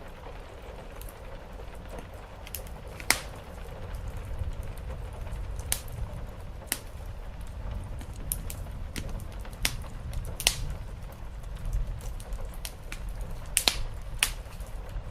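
Wood fire in a fireplace crackling, with about a dozen sharp, irregular pops over a steady low rumble, mixed with rain on a roof.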